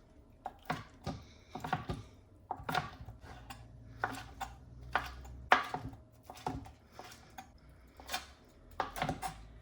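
Irregular taps and knocks of kitchen utensils on cookware, about one or two a second, over a faint steady low hum.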